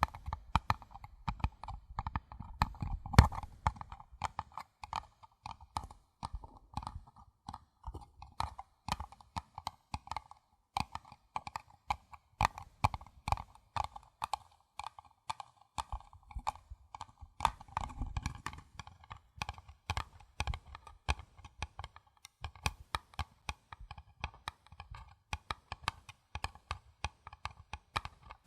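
Rapid, gentle tapping on a paper cup, many light taps a second with a hollow ring. Heavier, deeper knocks join in during the first few seconds and again past the middle.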